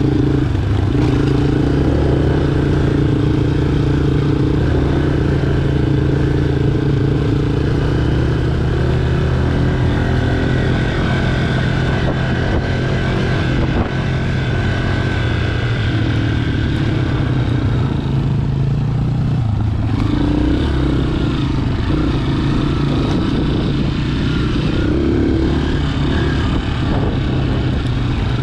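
Honda CRF230F dirt bike's single-cylinder four-stroke engine running under way, heard close from a camera mounted on the bike. The engine note is steady and shifts briefly about two-thirds of the way through as the throttle changes.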